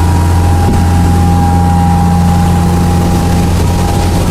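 Motorboat engine running steadily under way, a loud constant drone with a steady higher whine over it.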